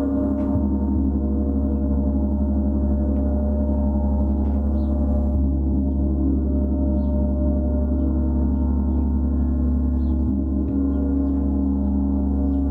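A gong sounding in a sustained, steady wash of many overlapping low tones, without separate strikes.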